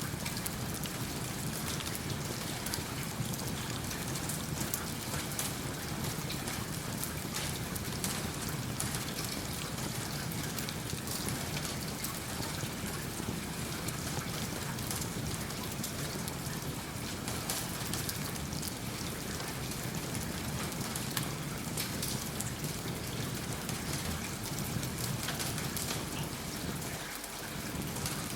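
Steady rain falling, with the crackle of a wood fire in a fireplace mixed in as many small clicks.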